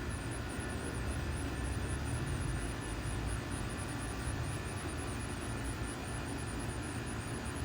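Boeing 737 MAX 8's CFM LEAP-1B turbofan engines running as the jet flies past on approach, a steady low rumble.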